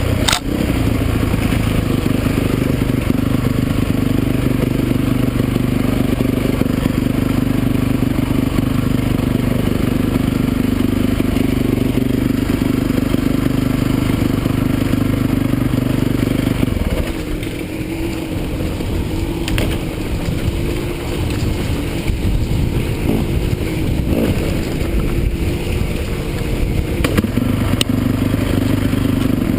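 Motocross motorcycle engines running, with one engine holding a steady note that drops away about seventeen seconds in and comes back near the end.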